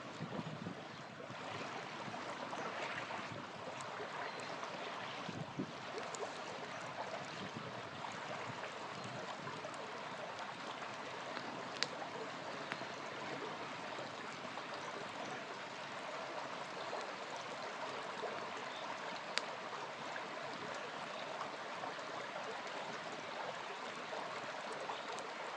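Small river flowing steadily, with a campfire crackling over it; a couple of sharp pops from the fire stand out, one near the middle and one later on.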